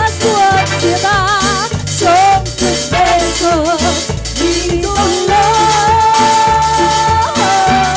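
A live Latin band playing an instrumental break: a wavering lead melody, with one long held note in the middle, over a stepping bass line and percussion.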